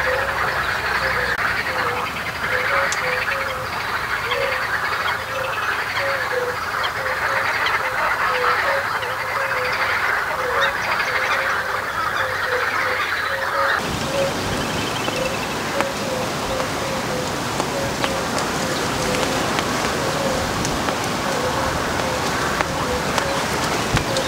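A dense chorus of animal calls, with a short call repeating about twice a second. About halfway through, the background changes abruptly and a steady noisy hiss joins the calls.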